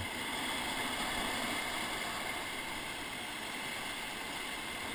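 Steady rush of whitewater on a river rapid, an even noise without pauses or distinct splashes.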